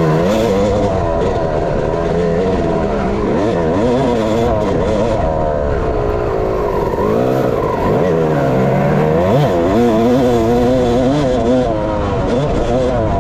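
Dirt bike engine running hard, its pitch rising and falling over and over as the throttle opens and closes through the track's turns and jumps.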